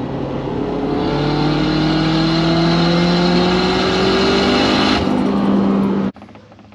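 Turbocharged Honda H22 engine accelerating hard under boost, heard from inside the car's cabin: the engine note rises slowly and steadily in pitch through one long pull, then cuts off suddenly about six seconds in.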